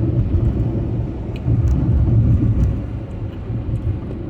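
Low, steady rumble of a moving vehicle, swelling for about a second near the middle.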